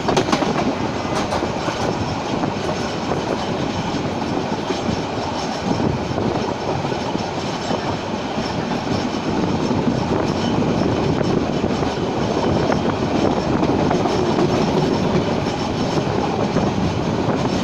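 Passenger train running along the line: a steady rumble and rattle of the wheels and carriage, with a few faint clicks of the wheels over the rails in the first seconds.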